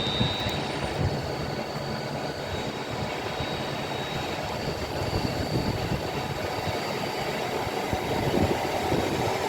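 Two coupled Class 805 Evero trains passing slowly through the station, a steady rumble of wheels on rails that grows louder near the end.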